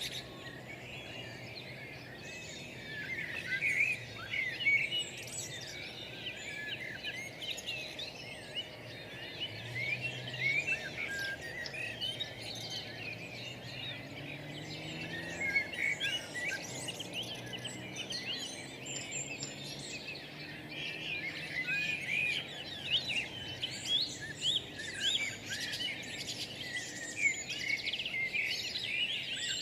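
A dense chorus of many small birds chirping and twittering, with short, quick calls overlapping throughout.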